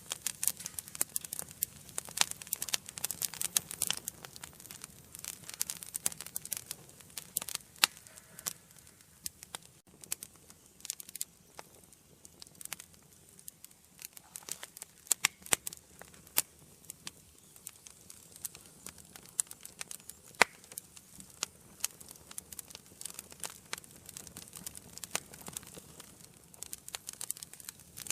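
Wood fire burning in an indoor fireplace, crackling with dense, irregular pops and snaps over a soft hiss, and one louder pop about twenty seconds in.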